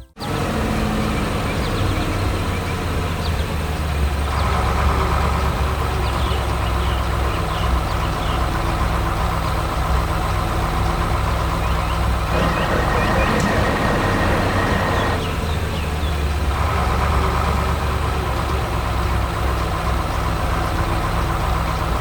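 Heavy machinery's diesel engine running steadily under load, with a higher whine joining about four seconds in, loudest for a few seconds past the middle, then easing off.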